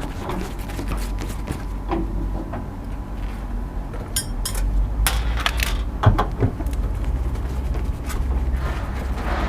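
Scattered clicks and metallic knocks from an air conditioner's outdoor unit being handled, with a cluster of sharper clacks about halfway through, over a steady low rumble.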